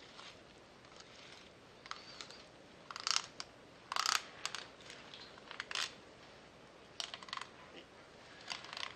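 Knife blade scraping and clicking along a flounder's backbone as the fillet is cut away: a scatter of short, sharp scrapes at uneven intervals, the loudest about three and four seconds in.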